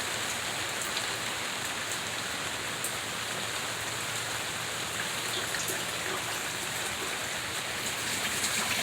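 Heavy rain falling steadily, an even hiss with faint scattered drips.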